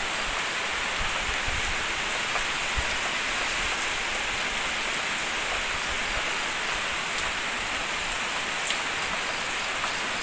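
Heavy typhoon rain falling steadily on trees and surfaces, an even hiss with a few faint drop ticks.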